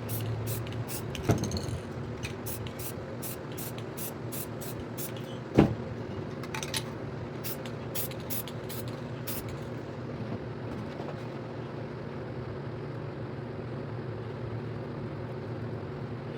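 Aerosol spray-paint can fired in quick short bursts, about two a second, for the first ten seconds or so, with two sharp knocks among them. A steady low hum runs underneath.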